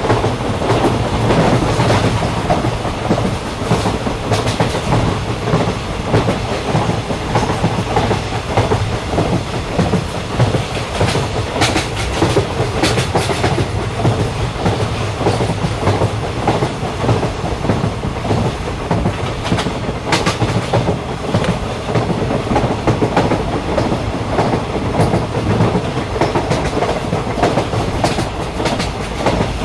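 Passenger train running at speed, heard from on board: a steady rumble of the carriage with the clickety-clack of wheels over rail joints, and a few sharper clacks now and then.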